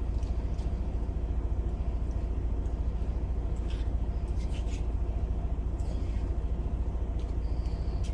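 Semi truck's diesel engine idling: a steady low rumble with a fast, even throb.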